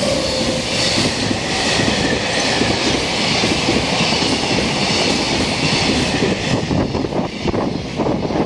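EF200 electric freight locomotive going by close at speed, then a long string of container flat wagons, some empty, rumbling and clattering on the rails. The locomotive's motor whine fades away in the first second, and sharp wheel clacks come through near the end.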